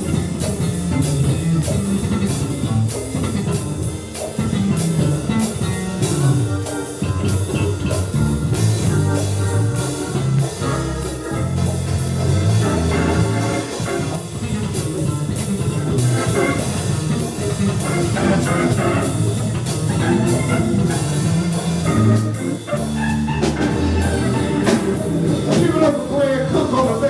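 Live instrumental band music, with a drum kit keeping a steady beat under pitched instrument lines.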